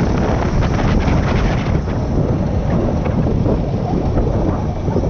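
Heavy wind buffeting on the microphone of a moving motorcycle, with the bike's road and running noise underneath.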